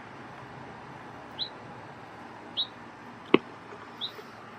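Small bird chirping: three short high chirps about a second apart. A single sharp click, the loudest sound, comes a little past the middle.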